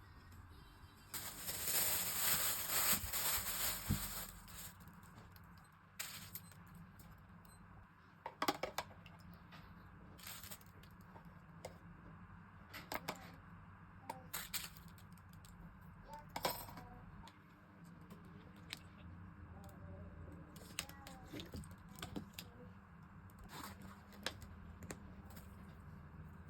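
Kitchen prep of avocado to marinate in soy sauce. About a second in there are a few seconds of loud rustling noise, then scattered sharp clicks and knocks of a knife and utensils on hard kitchen surfaces.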